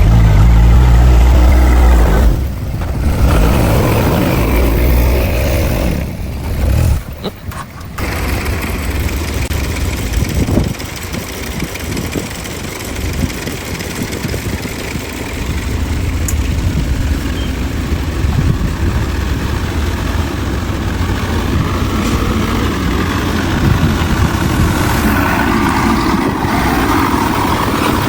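Heavy diesel engine of earthmoving machinery working at a land-fill, loudest in the first two seconds, dropping briefly twice, then running steadily.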